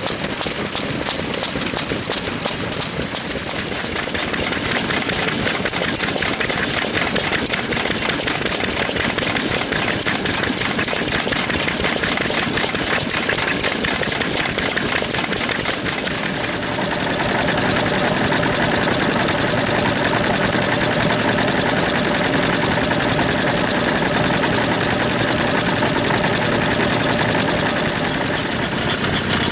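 Old stationary engines running with rapid, even firing beats. About 17 seconds in the sound gets louder and a steady tone joins the beats.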